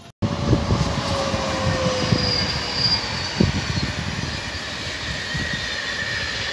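A Deutsche Bahn long-distance passenger train running past close by, its wheels rumbling on the rails, with a squealing tone that glides slowly down over the first few seconds.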